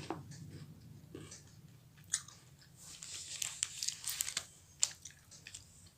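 Crunchy chocolate bar being bitten and chewed: scattered crisp cracks and crackles, busiest in the middle, with a sharp snap about two seconds in and another near the end.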